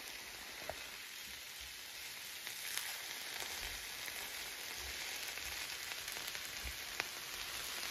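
Shredded cabbage and black beans sizzling in oil in a nonstick pan, a steady hiss, with a few light clicks from a plastic spatula stirring them.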